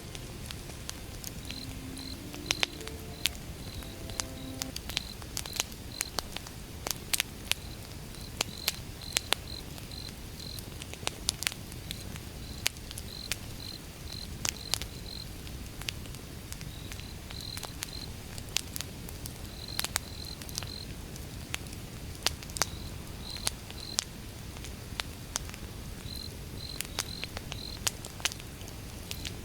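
Wood fire crackling, with irregular sharp pops of burning firewood over a low steady rush. Crickets chirp steadily in the background in short repeated trills.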